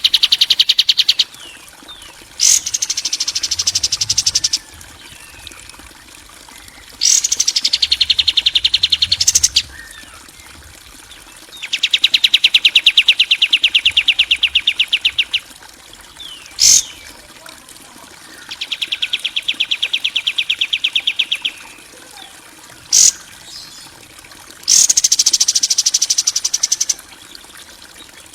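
Harsh, rapid bird trills of a songbird-training (masteran kasaran) recording: about six fast buzzy trill phrases, each two to three seconds long and a few seconds apart, some held level and some dipping and rising in pitch, with two short sharp chirps between them.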